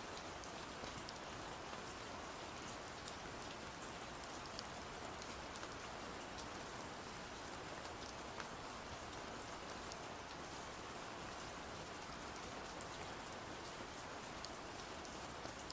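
Steady rain falling: an even hiss with scattered faint ticks throughout.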